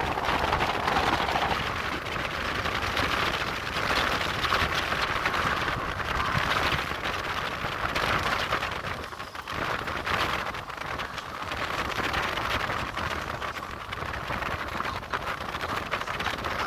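Mumbai suburban electric local train running between stations, heard from inside the luggage coach: a steady rumble and rattle of wheels on track, swelling and easing every second or two.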